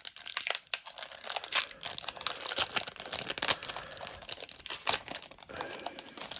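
Foil booster pack wrapper crinkling and tearing as it is handled and torn open, a dense run of crackles.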